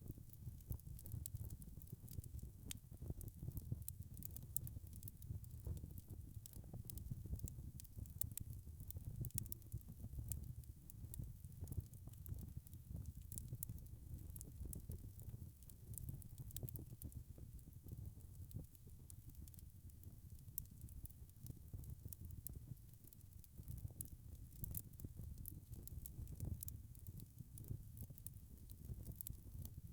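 Wood fire burning in a fireplace: a soft low rumble of flames with frequent small crackles and pops of burning logs.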